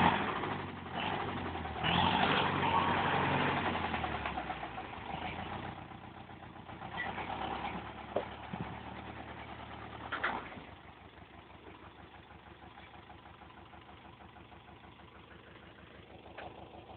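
Diesel engine of a DTC 640 forestry tractor running. It is loudest a couple of seconds in, eases off gradually, then drops abruptly to a quieter steady idle about ten seconds in.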